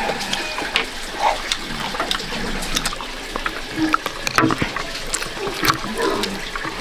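Water trickling and splashing, with scattered small clicks and taps throughout.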